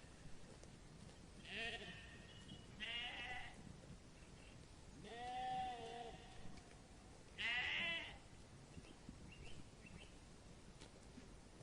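An animal bleating four times, each call a second or less, with short pauses between.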